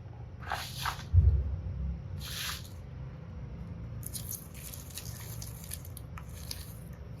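Slime being squished and worked by hand: a few short squelches in the first few seconds, then a run of small crackles and pops.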